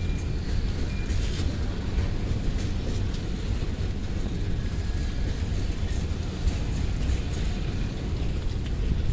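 Container flatcars of a long freight train rolling past, a steady low rumble of steel wheels on rails with a few faint clicks.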